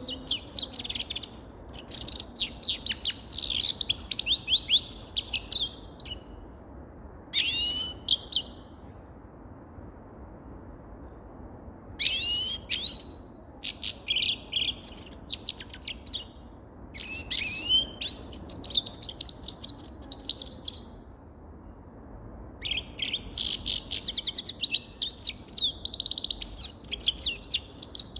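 Grey-headed goldfinch singing: several bouts of fast, high twittering and trills, each lasting a few seconds, separated by short pauses.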